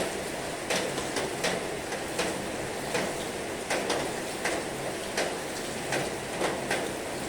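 Heavy rain falling steadily, a dense even hiss, with irregular sharp taps of drops striking close by, about one or two a second.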